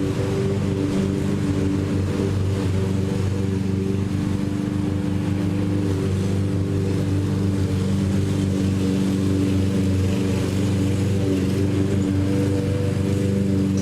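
Lawn mower engine running steadily, its pitch shifting slightly now and then.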